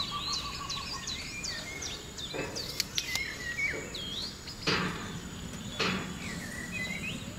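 Rainforest birds calling: many short whistled chirps and slurred notes, over a steady high-pitched insect whine. A few soft knocks come between about two and six seconds in.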